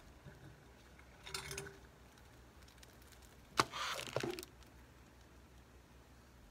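Metal kitchen tongs set down on a hard countertop: a sharp clack about three and a half seconds in, then a brief rattle as they settle. A shorter scrape comes about a second in.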